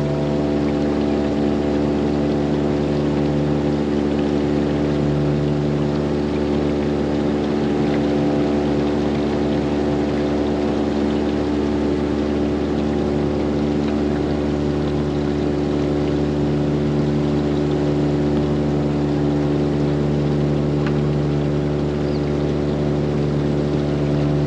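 Boat engine running steadily at constant speed, a continuous even drone with no change in pitch.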